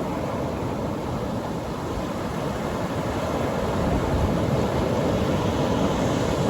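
Atlantic Ocean surf breaking on the beach: a steady wash of wave noise that swells slightly about halfway through, with wind on the microphone.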